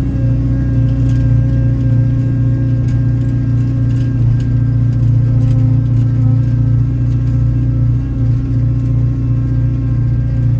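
An engine running steadily at a constant speed, a loud, even hum that holds one pitch throughout.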